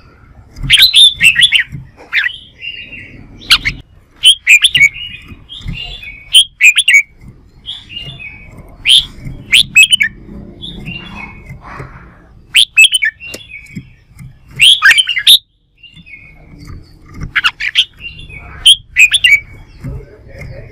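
Red-whiskered bulbuls singing: loud, bright bursts of quick chirped notes, repeated every second or two, with a brief full break about fifteen seconds in.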